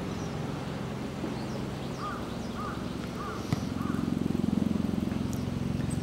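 A bird calls four times in quick succession about two seconds in, over a steady low hum that grows louder in the second half. A single sharp click comes in the middle.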